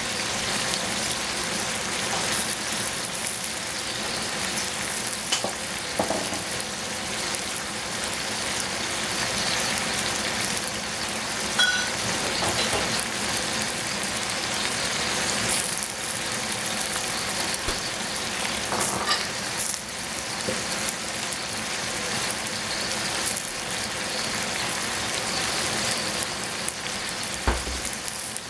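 Chopped tomatoes sizzling steadily in a stainless steel saucepan, with an occasional sharp pop.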